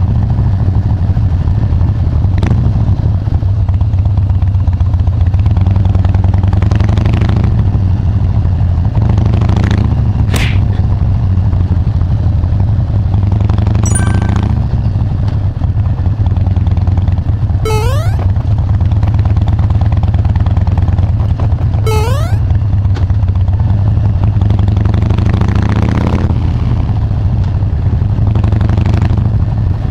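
Harley-Davidson Dyna Wide Glide's air-cooled V-twin engine running steadily through its exhaust, a loud, low, even note with no big revs. Two short rising chirps are heard twice in the second half.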